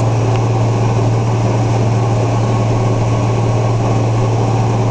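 Tractor engine running steadily at constant speed, a loud, even drone with a strong low hum.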